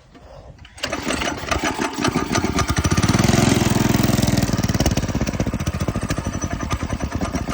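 Go-kart's small engine with a newly fitted 30 mm carburetor starting about a second in and running with rapid, even firing pulses, getting louder to a peak around the middle, then easing slightly.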